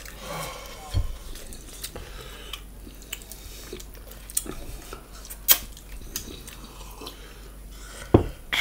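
Close-up eating sounds from pig's feet: chewing and smacking with scattered small clicks. There is a sharp click about halfway through and a dull thump about a second in and another near the end.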